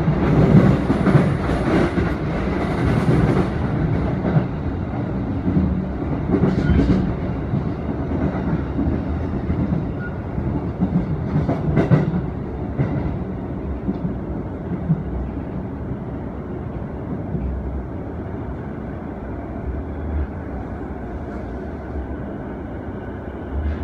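Keiyo Line electric train's running noise heard from inside the car: wheels rumbling on the rails, with a couple of sharp clacks over rail joints or points in the first half. The noise grows quieter toward the end as the train comes into the station.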